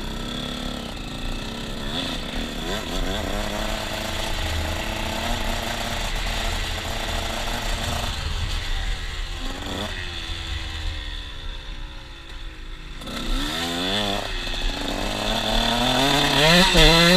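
KTM 125 SX single-cylinder two-stroke motocross engine revving up and down under throttle, dipping about three quarters of the way through, then rising sharply in pitch and loudness near the end.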